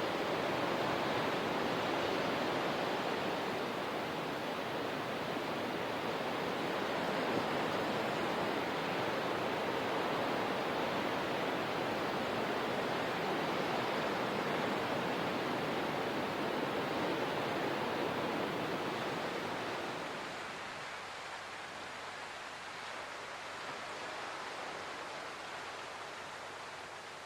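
Steady rushing water with no distinct splashes or beats; about twenty seconds in it turns softer and thinner.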